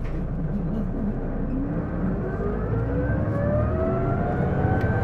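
Inside an Isuzu Erga city bus (PJ-LV234L1) as it accelerates: engine and road noise with an abnormal whine that climbs in pitch from about two seconds in. The whine is like the sound of a PDG-LR's automatic gearbox, and the owner suspects a transmission fault.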